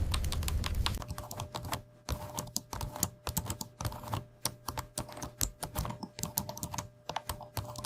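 Rapid typing on a computer keyboard: a quick, uneven run of crisp key clicks, several a second. About a second in, a low rumble under the clicks drops away, leaving the clicks over a faint steady hum.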